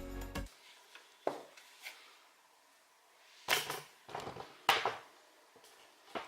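Background music cutting off, followed by a few faint, short knocks and rustles of things being handled, in small clusters with pauses between.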